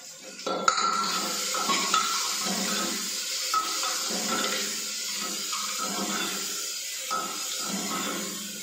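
Food frying and sizzling in an open pressure-cooker pot while a metal ladle stirs it, scraping and clinking against the pot. The sizzle starts abruptly about a second in.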